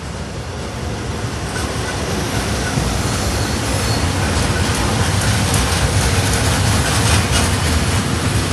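Train coming closer and passing, its noise growing louder over the first few seconds and then staying loud, with wheels clacking over rail joints.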